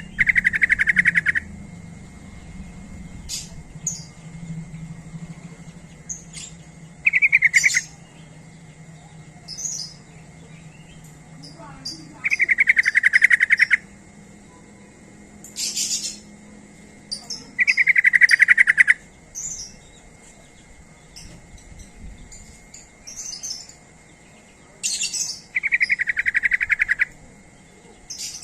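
Yellow-vented bulbul (trucukan) calling in five loud, fast chattering phrases, each about a second long and several seconds apart, with short high chirps from other birds in between.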